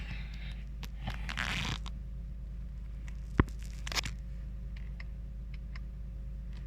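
Steady low mechanical hum, with a short burst of scratchy rustling about a second in and two sharp clicks a little over halfway through.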